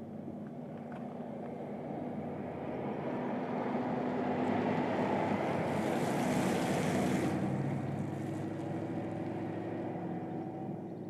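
BMW X6 driving: a steady engine hum under tyre and wind rush. It swells to a peak about six seconds in with a brief rise in hiss, then eases off.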